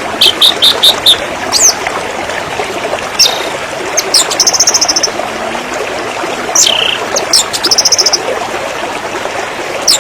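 Steady rush of a waterfall with songbirds calling over it: a run of five quick chirps at the start, several sharp downward whistles, and two short buzzy trills around the middle.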